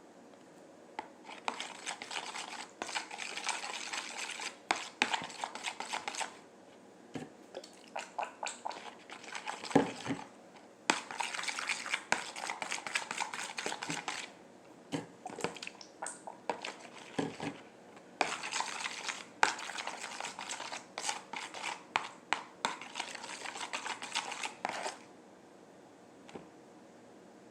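A utensil scraping and clicking against a mixing container as glitter glue and slime activator are stirred, in bouts of a few seconds with short pauses between.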